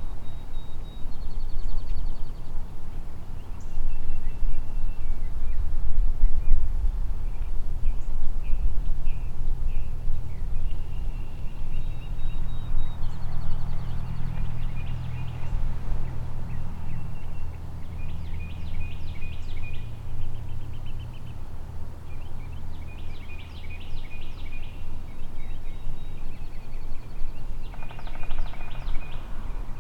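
Songbirds chirping and trilling repeatedly over a low steady drone through the middle. Near the end a wild turkey gobbles once.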